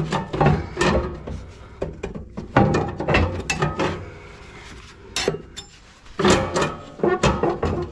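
Irregular knocks, clatters and scrapes as the tight back brick and baffle of an ACR Woodpecker wood stove are worked loose inside the firebox, with a quieter pause in the middle.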